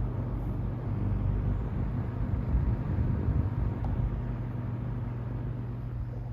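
Vintage Emerson Electric 16-inch table fan (model 77648-SG) running: a steady motor hum under the rush of air from the blades. The low rumble grows louder and more uneven for a second or two in the middle.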